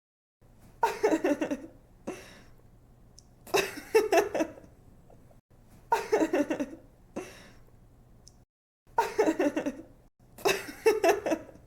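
A young woman laughing in five bursts of quick giggles, each about a second long and two to three seconds apart.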